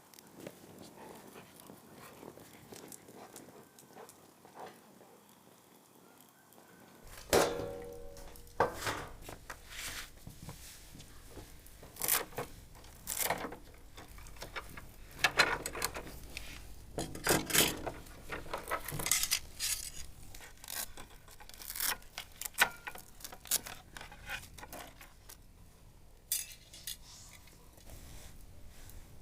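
Kitchenware clattering: scattered clinks and knocks of dishes and metal utensils, starting about seven seconds in after a quiet stretch.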